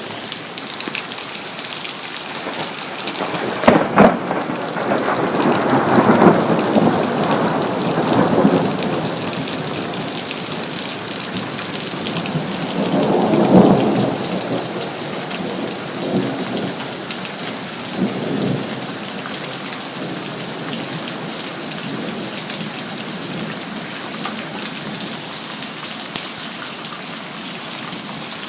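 Steady heavy rain falling on city surfaces, with a sharp thunder crack about four seconds in, then rolling thunder that rumbles for several seconds. A second rumble swells up around the middle, followed by a couple of fainter ones.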